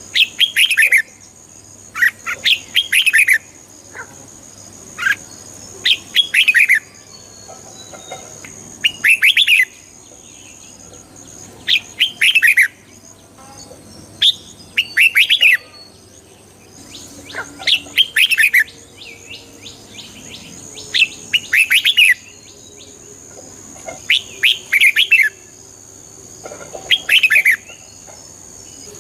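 Red-whiskered bulbul singing: short, loud phrases of quick falling whistled notes, repeated about every two to three seconds.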